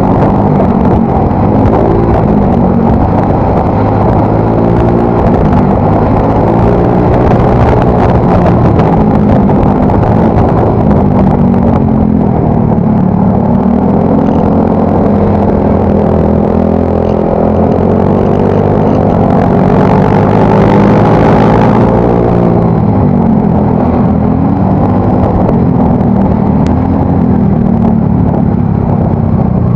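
Yamaha Mio Soul GT scooter's single-cylinder engine running through a new aftermarket exhaust while ridden, its pitch rising and falling as it accelerates and eases off. It is loudest and brightest about twenty seconds in.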